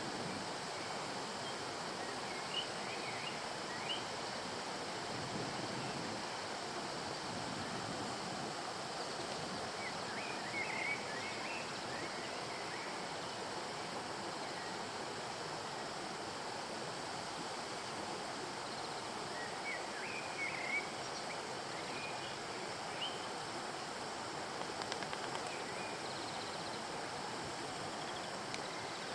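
Steady rush of flowing stream water, with a few brief high bird chirps coming and going over it.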